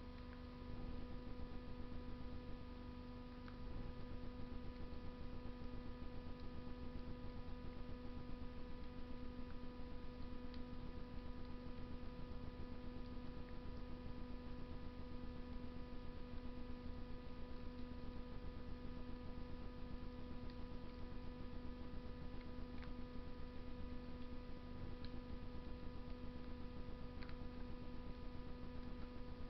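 Steady electrical hum, with a few faint, scattered pops from a wood fire burning in a Russian stove.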